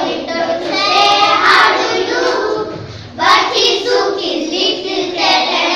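A group of children singing a nursery rhyme in unison, in phrases with a short break about three seconds in.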